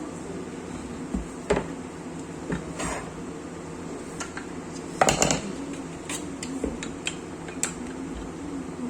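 Metal clinks and knocks of hand tools and parts as an angle grinder is being taken apart, starting with removing its disc. They come as scattered single clicks, with the loudest clatter about five seconds in.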